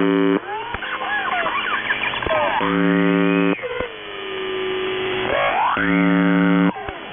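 Shortwave radio reception of the UVB-76 'Buzzer' frequency. The station's harsh buzz tone sounds three times, about a second each. In between, a pirate's strange noises play: warbling sliding whistles, rising sweeps and a long falling tone over radio noise.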